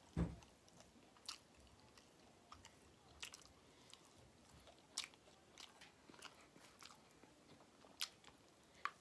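A person biting and chewing fried fish and French fries close to the microphone: faint, with scattered sharp crunches and mouth clicks about once a second.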